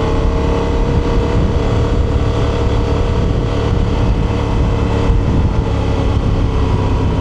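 2025 Honda Transalp's 755 cc parallel-twin engine running at a steady speed through its stock exhaust while the bike is ridden, quite loud, with no change in pitch.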